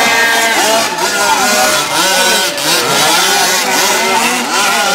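Engines of gas-powered radio-controlled boats running, their pitch repeatedly rising and falling as they rev and pass.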